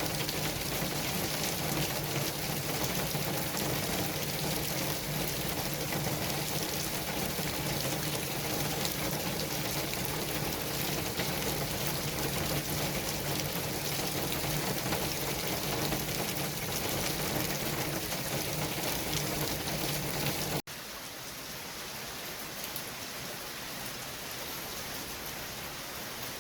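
Steady city traffic ambience: a continuous hiss like tyres on a wet road or rain, with a low engine hum underneath. About twenty seconds in it cuts suddenly to a quieter, thinner hiss.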